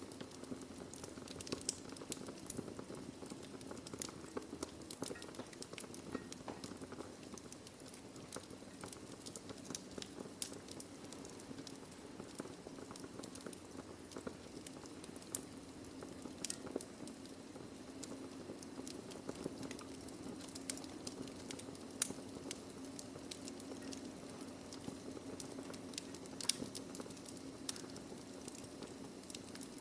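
Wood fire burning in a fireplace: logs crackling with irregular sharp pops over a steady low background, one pop much louder than the rest about two-thirds of the way through.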